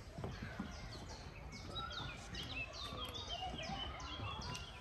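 A songbird singing a fast series of repeated downward-slurred notes, about three or four a second, beginning about a second in.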